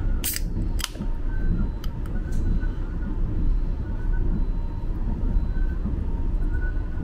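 Aluminium soda can pull tab opened: two sharp cracks about half a second apart near the start. Under them, the steady low rumble of the moving sleeper train.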